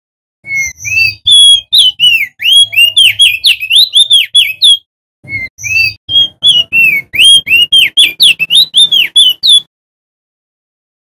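Male opior jambul (crested white-eye) singing: two fast run-on phrases of loud, sweeping whistled notes, rising and falling, several a second, with a short break about halfway through.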